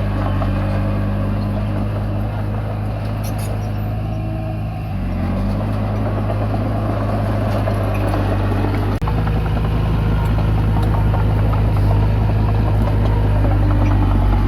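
Komatsu D20P bulldozer's diesel engine running steadily under load as it pushes soil. It dips briefly about five seconds in and then runs louder, with a momentary break near nine seconds.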